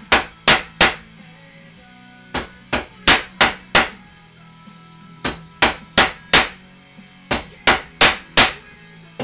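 Hammer blows flattening a punched metal beer bottle cap: sharp strikes about three a second in runs of three to five, with short pauses between the runs.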